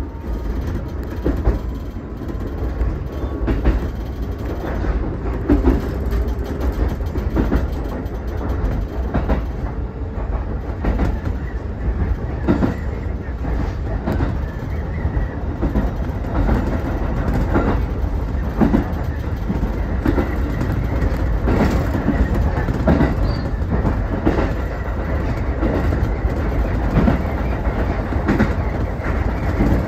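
Ichibata Electric Railway electric train running, heard from the front of the car: a steady low rumble with repeated clicks and knocks as the wheels pass over rail joints.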